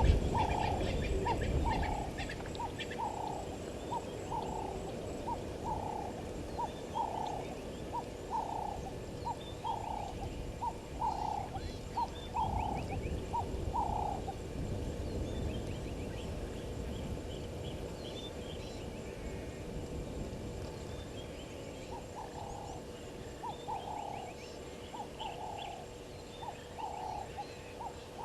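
Wild animal calling at a waterhole: a single call note repeated about every 0.7 s for the first half, stopping, then starting again near the end, with fainter high bird chirps above.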